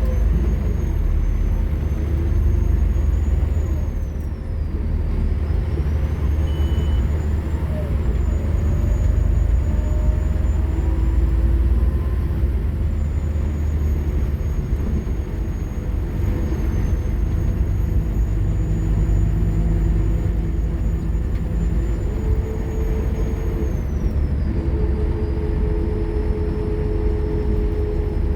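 Scania K230UB bus's diesel engine working hard under load, heard from on board, a heavy steady rumble. A high whine rises and falls with the revs, dropping about four seconds in and again near the end.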